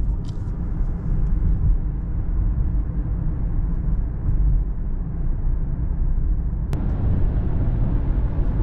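Steady low road and engine noise inside a moving car's cabin, with a single sharp click near the end.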